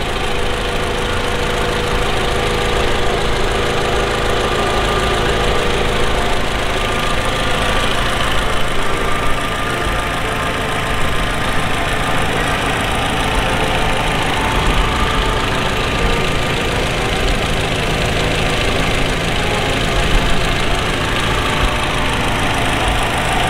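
Toyota Camry (XV55) engine idling steadily, heard close up under the open hood.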